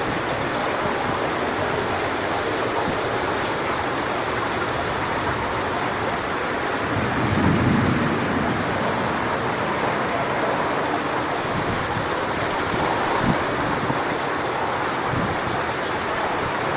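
Strong wind rushing steadily through coconut palm fronds, with a heavier low gust swelling about seven seconds in and a few brief low thumps near the end.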